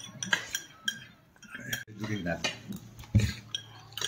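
Cutlery clinking against dishes in scattered light clinks, with a duller knock about three seconds in.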